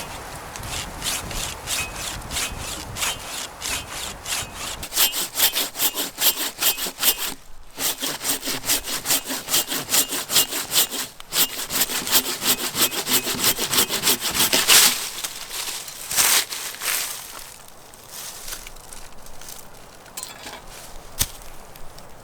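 Hand saw cutting through wood in steady, rapid back-and-forth strokes that stop suddenly about two-thirds of the way in. A few scattered knocks and rustles follow.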